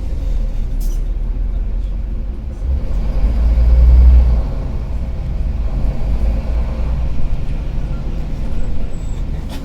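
Karsan Avancity+ articulated city bus engine running with a low, crackling rumble, swelling louder about three to four seconds in as it pulls.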